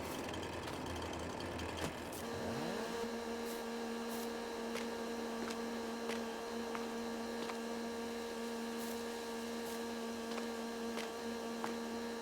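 A motor speeds up about two seconds in, then runs at a steady, even-pitched hum, with a few sharp clicks over it.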